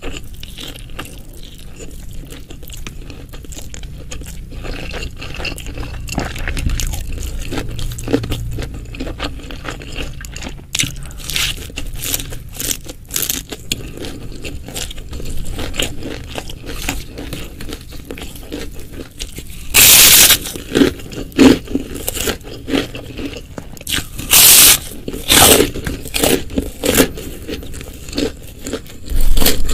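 Close-miked eating sounds: chewing with small wet clicks, then from about two-thirds of the way in a series of loud, sharp crunching bites.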